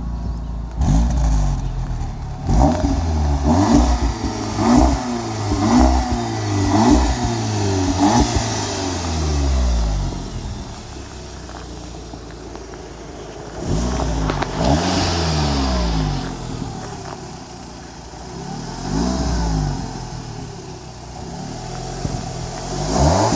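Audi S3 8V sedan's turbocharged 2.0-litre four-cylinder being revved: a run of about six short blips, roughly one a second, then settling to idle. Longer revs follow about halfway through, again later, and at the very end.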